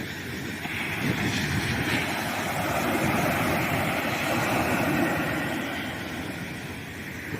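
Ocean waves breaking on a sandy beach: a wash of surf that swells about a second in and eases off near the end.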